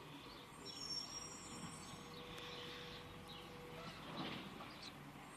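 Birds chirping in quick, short falling notes, with a few high thin whistles, over faint background noise.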